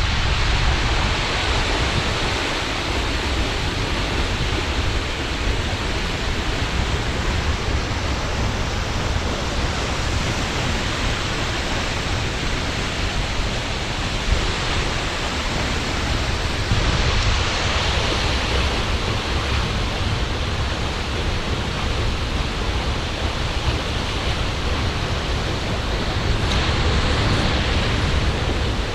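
Seljalandsfoss waterfall rushing close by: a steady, loud roar of falling water and spray that holds even throughout.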